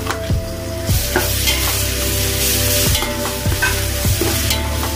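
Onions sizzling in hot oil in an aluminium pot as ginger-garlic paste goes in and a metal ladle stirs, knocking and scraping against the pot several times.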